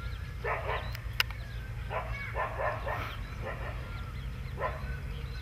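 A dog barking, about seven short barks at irregular intervals. Two sharp clicks come about a second in, over a steady low rumble.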